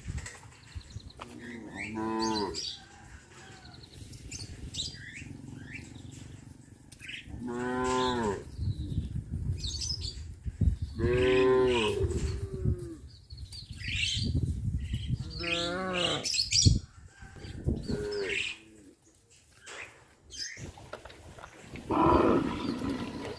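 Cattle mooing: five or six long moos, a few seconds apart.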